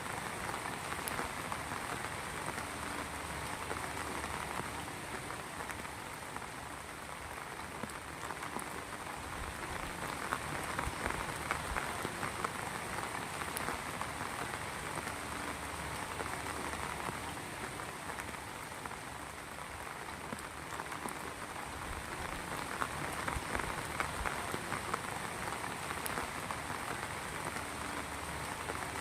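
Heavy rain falling steadily, a dense patter of many drops hitting a surface, swelling and easing a little every few seconds.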